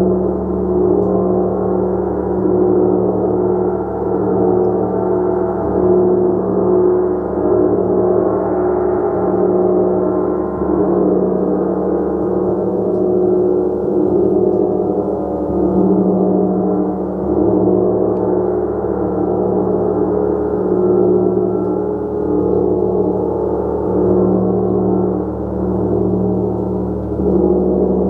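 Gong played continuously, a dense sustained wash of many overlapping low tones that swells gently every couple of seconds as it is kept going with soft strokes.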